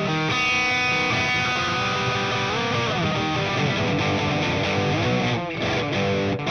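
Stratocaster electric guitar played through a Valeton Dapper Mini amp-simulator pedal with a driven tone. It plays sustained notes and chords, with several slides or bends in pitch and two brief breaks near the end.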